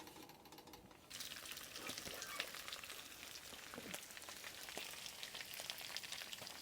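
Meat sizzling as it fries, a steady crackle with many small pops that sets in about a second in; it is cooked through and slightly charred.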